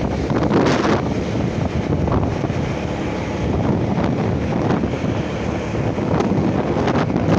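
Wind buffeting the microphone on a moving motorcycle, over steady road and traffic noise.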